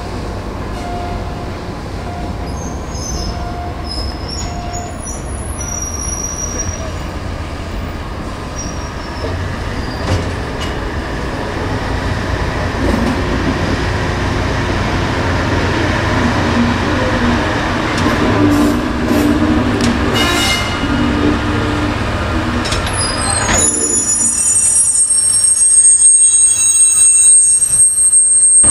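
An EF65 electric locomotive moved slowly through the yard by a diesel shunting car: a steady low engine and rolling-wheel rumble that grows louder as they come past. Near the end the wheels start to squeal high and loud on the rails.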